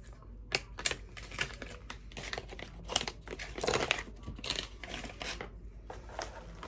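Packaging being handled and crinkled by hand during an unboxing: irregular crackly rustling and crumpling, with a few sharper crinkles.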